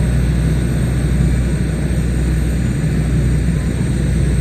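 Propeller-driven WW2 warbird's piston engine running, a loud steady low drone with no change in pitch.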